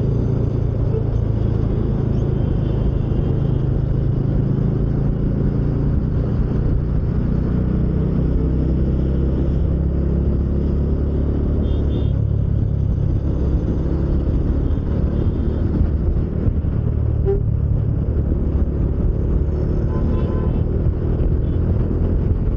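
Bajaj Dominar 400's single-cylinder engine running steadily while riding on a highway, its pitch shifting a few times as the speed changes.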